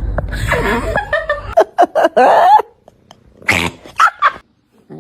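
A pet animal making a series of short vocal sounds. The loudest is a wavering call about two seconds in, followed by a couple of brief calls.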